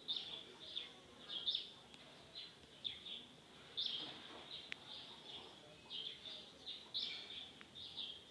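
Small birds chirping: short, high chirps repeated irregularly, roughly one or two a second.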